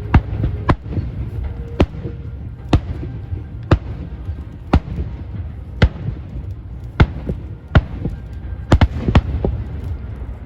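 Fireworks going off: a string of sharp bangs about once a second, a few in quick pairs near the end, over a steady low rumble.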